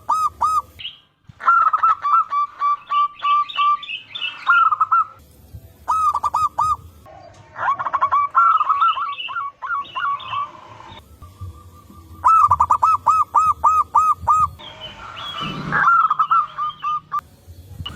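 Zebra doves (perkutut) cooing and answering one another: bouts of quick, evenly repeated notes broken by short pauses. Fainter, higher chirping from other small birds runs between the bouts.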